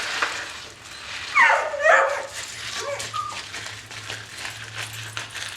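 Dogs barking and yelping: two loud, pitch-bending yelps about a second and a half in, then a few short, fainter whines.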